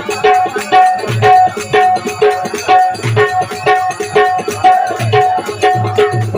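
Instrumental percussion of a traditional bhajan: a tuned hand drum playing a steady, brisk rhythm of ringing pitched strokes over deep bass strokes, with small hand cymbals clashing throughout.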